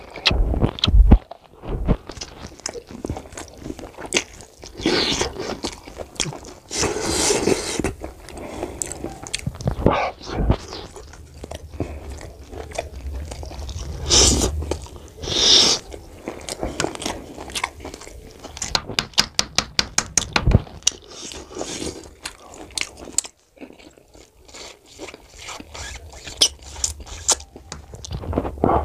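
Close-miked chewing and mouth sounds of a person eating mutton curry and rice with his hand: bites and chewing, with a quick run of clicks about two-thirds of the way through.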